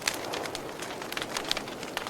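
Wood fire burning: a steady hiss with frequent sharp crackles and pops of uneven loudness.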